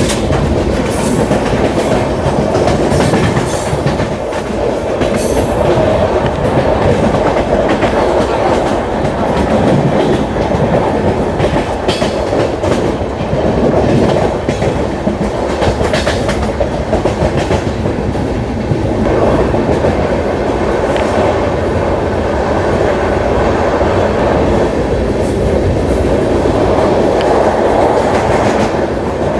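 Indian train running at speed on the track: a loud, steady rumble with wheels clacking irregularly over rail joints. The uploader puts the noise down to the track joints and alignment.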